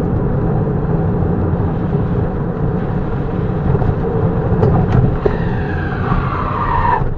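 Road vehicle running: a steady low engine and road rumble, with a falling whine over the last couple of seconds.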